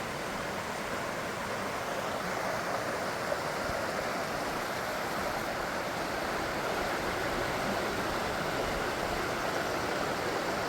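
Steady rushing of a river tumbling over small waterfalls, growing slightly louder as it goes on.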